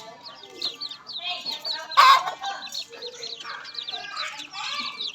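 A flock of farm poultry calling all at once: many short, high chirps overlapping, with one loud squawk about two seconds in.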